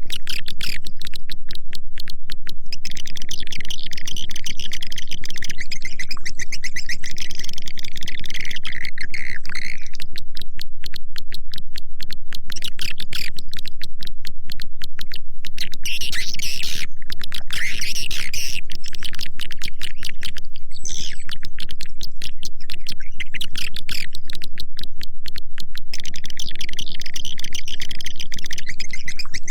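Swiftlet lure-sound recording: a dense, continuous train of rapid clicks with recurring stretches of high twittering chirps from edible-nest swiftlets. It is a playback call meant to draw a swiftlet colony into a nesting house.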